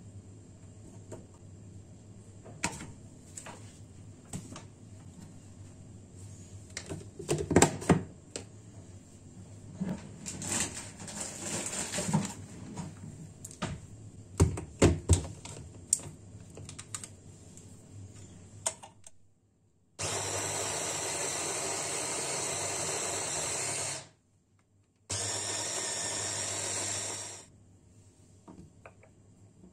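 Kitchen clatter of utensils and dishes knocking, a few sharp clacks among them, then a small electric kitchen appliance motor running in two runs of about four seconds and two and a half seconds, each starting and stopping abruptly.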